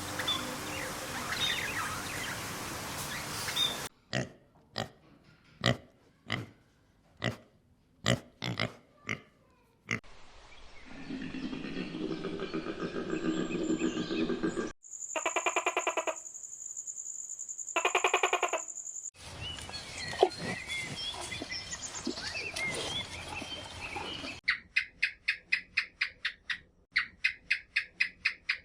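Farm animal calls in a string of short clips that change abruptly every few seconds: first a run of separate short calls, then drawn-out pitched cries, and near the end rapid repeated calls about three a second.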